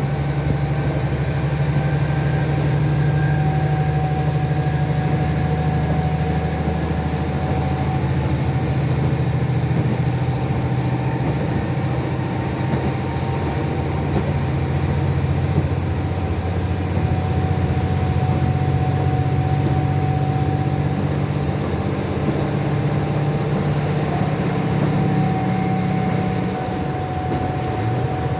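KiHa 40 diesel railcar's DMF13HZI turbocharged straight-six diesel engine running steadily as the train pulls away, a low drone with a steady mid tone. A thin high whistle comes in about a third of the way through and dips and stops near the end.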